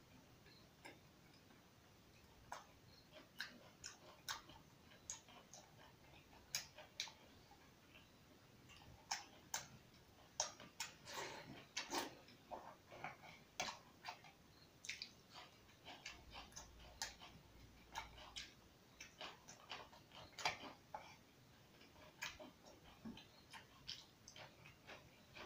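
A person chewing food with the mouth open: faint, irregular wet lip smacks and mouth clicks, busier in a few stretches.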